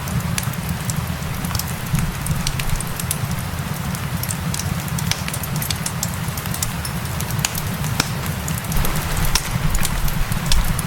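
Wood fire crackling with many sharp, irregular pops over steady rainfall, with a deep, even rumble underneath.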